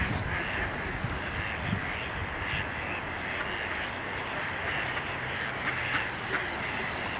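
Ducks quacking in short, scattered calls over a steady low hum of distant engine noise.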